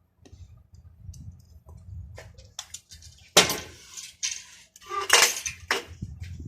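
Hard metal and glass parts clinking and rattling as they are handled, with two louder clanks, about three and a half and five seconds in, that ring briefly.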